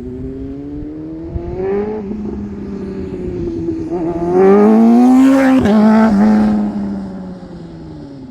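BMW S1000RR's inline-four engine accelerating hard past the microphone, the pitch climbing and dropping back at upshifts about two, four and five and a half seconds in. It is loudest around five seconds in, then falls in pitch and fades as the bike moves away.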